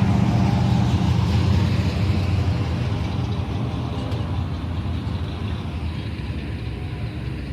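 A car engine running with a low, steady hum, growing gradually quieter.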